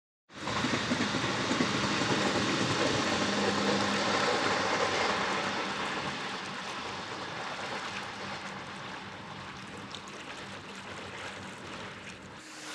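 A local train running along the track, a steady rushing rumble with a faint hum under it, loudest at first and slowly fading as it draws away.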